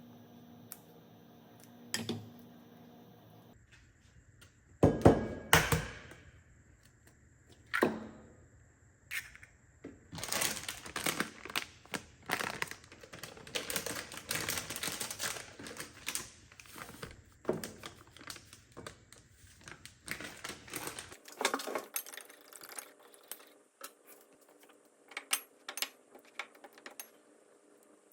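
Kitchen handling sounds: a few knocks, then a stretch of quick, irregular clicking and clattering of utensils and dishes, with scattered sharp clicks near the end.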